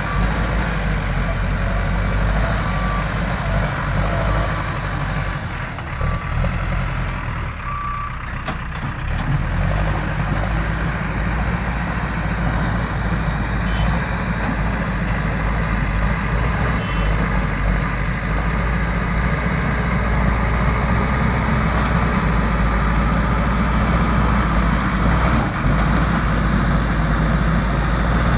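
JCB backhoe loader's diesel engine running steadily under work, with a low, even rumble. A reversing alarm beeps repeatedly during the first eight seconds or so, then stops.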